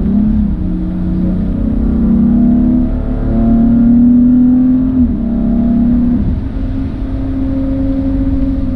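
Car engine under load, its pitch climbing for a few seconds, then dropping sharply twice in quick succession about halfway through before holding steady, over a constant low road rumble.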